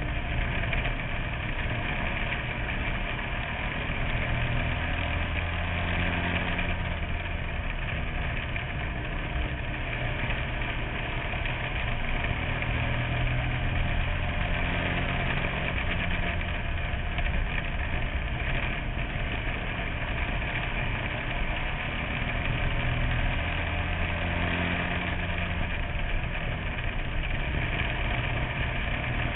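Bandolero-type race car engine running under race load, heard from inside the car, its pitch rising and falling every several seconds as the car powers down the straights and lifts for the turns.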